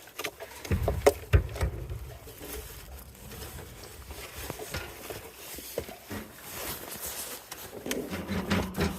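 Scattered light knocks and scrapes, with rumbling thumps about a second in, as of a phone microphone being handled.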